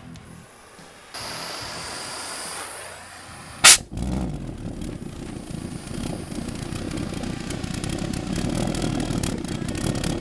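Jam jar pulse jet fuelled with RC car nitro fuel (nitromethane and methanol) lighting with a single sharp bang a little under four seconds in, then running with a steady rough rumble that grows slightly louder. A brief hiss comes about a second in, before the bang.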